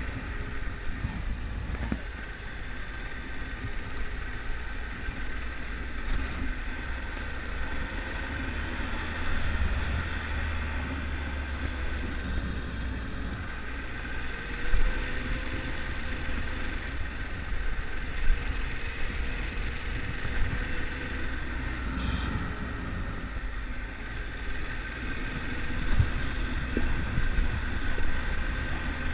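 Triumph Tiger 1200's three-cylinder engine running at a steady, gently wavering pitch while the motorcycle rides, under a low wind rumble on the camera mic, with a few short knocks.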